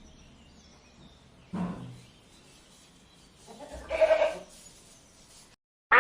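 Goat bleating: a shorter, lower call, then a louder, drawn-out bleat about four seconds in. The sound cuts off abruptly near the end.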